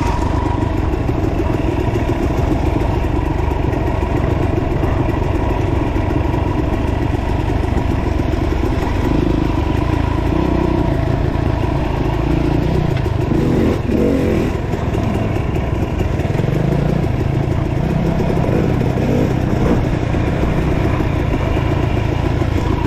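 Dirt bike engine running continuously, its pitch shifting up and down with the throttle around the middle.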